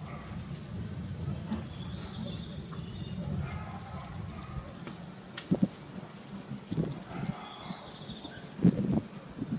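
A cricket chirping, a steady, evenly pulsed high trill. A low rumble sits under the first half, and a few short low thumps come in the second half, the loudest near the end.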